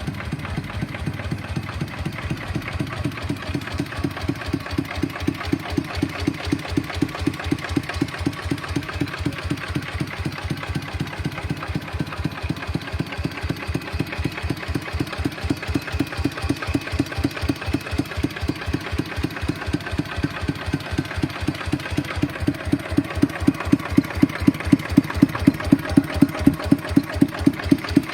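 Kubota ET95 single-cylinder diesel engine idling with a steady, even beat. It gets louder for the last few seconds. The seller describes the engine as tight and smooth.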